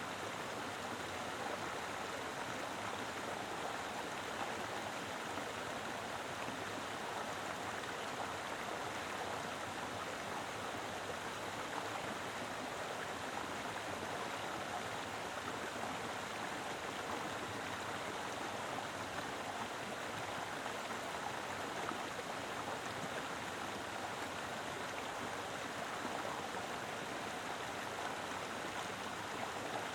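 Mountain river flowing steadily: a continuous, even rush of water over rocks.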